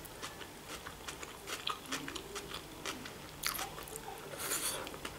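A person chewing soft fried potatoes and sausage close to the microphone, making many small wet mouth clicks and smacks. Two louder bursts come near the end as another forkful goes into the mouth.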